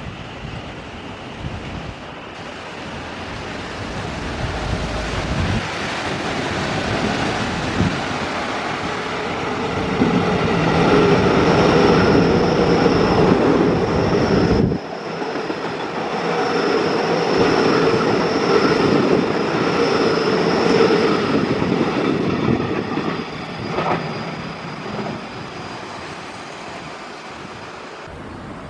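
A Taiwan Railways train running past on the station tracks. Its wheels rumble and clack over the rails with a steady high whine. The sound grows over several seconds, is loudest in the middle, then fades away.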